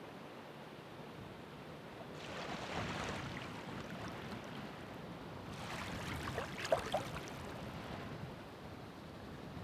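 Ocean waves washing in: two surges of surf, one about two seconds in and a louder one just past the middle, each swelling with a crackling hiss and then fading back to a low wash.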